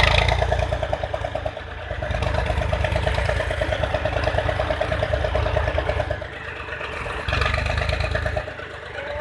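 Diesel tractor engine running with a fast, even beat, easing off briefly about six seconds in and again near the end before picking up.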